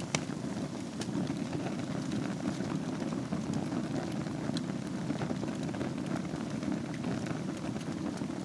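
Wood fire burning in a fireplace: a steady low rush of flames with scattered crackles and pops, a sharper pop just after the start.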